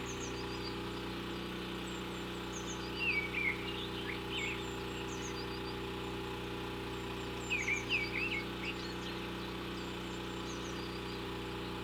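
Birds chirping in two short flurries, about three seconds in and again near eight seconds, with fainter high chirps scattered throughout, over a steady low hum.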